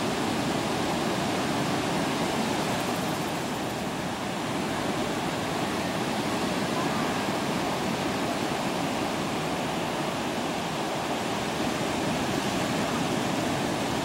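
Pacific Ocean surf breaking and washing onto the beach, a steady rushing noise with no single crash standing out.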